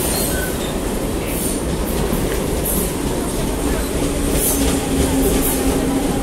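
CNR 3000-series electric multiple-unit train moving along the station platform: a steady, loud rumble of wheels on rail with a few sharp clacks. A steady hum joins the rumble about four seconds in.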